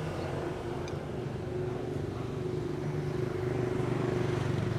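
A motor engine running steadily with a low hum, growing a little louder in the second half.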